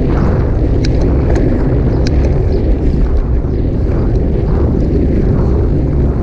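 Steady, loud wind rumble on a GoPro camera's microphone during a bicycle ride, with a few sharp clicks about one and two seconds in.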